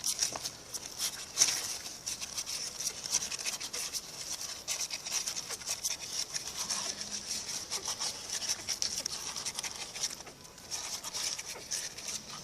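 Eleven-day-old puppies suckling from their mother: a steady stream of quick, wet smacking and clicking sounds.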